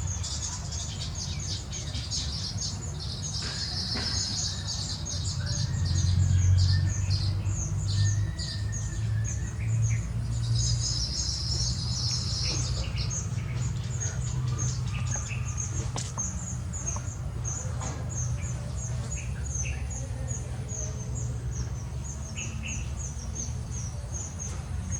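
A group of small birds chirping: a continuous run of short high chirps, with denser chattering bursts twice. A steady low rumble runs underneath.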